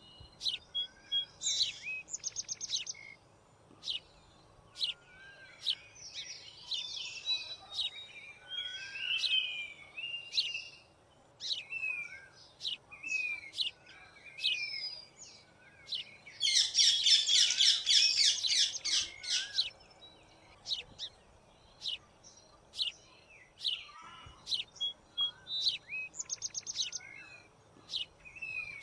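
White-throated fantail and other small birds calling: a steady run of short, sharp high notes and brief falling whistles. About halfway through comes a loud, rapid chattering burst lasting about three seconds.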